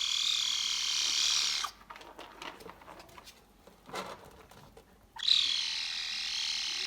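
High-pitched, wavering dog whining in two long stretches, with a quieter gap of faint clicks between them.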